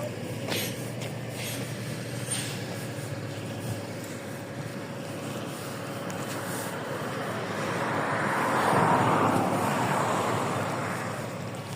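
LiAZ 5292.65 city bus under way, heard from inside: its Yuchai diesel engine runs steadily under road noise, with a few light clicks early on. A louder whooshing noise builds about eight seconds in, peaks, and fades near the end.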